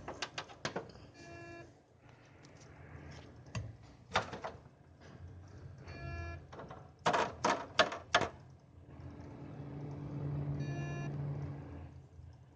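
Cooler Master Seidon 120V liquid CPU cooler setup giving a short pitched beep three times, about every four to five seconds, between sharp clicks, the loudest a quick run of four about seven seconds in, over a low hum that swells near the end. The owner cannot say whether it is a strange noise or an alarm, and links it to the CPU temperature climbing to 60 °C within seconds of start-up.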